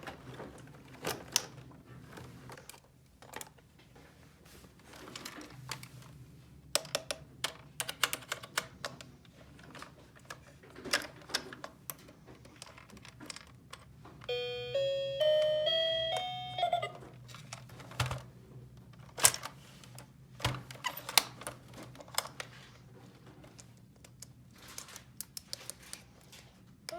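Small plastic toy pieces clicking and tapping as they are handled and pressed. About halfway through, a toy's electronic chime plays a short run of beeping notes that step upward.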